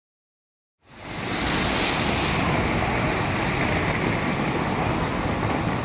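Steady rushing noise of a Boeing 737-800 on the ground before departure, fading in about a second in and holding at an even level.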